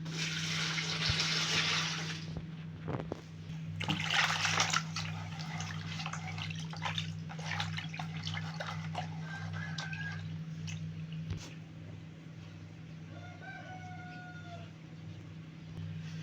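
Two loud bursts of splashing, water-like noise, the first at the start and the second about four seconds in, followed by smaller splashes, over a steady low hum. A chicken calls briefly a couple of times.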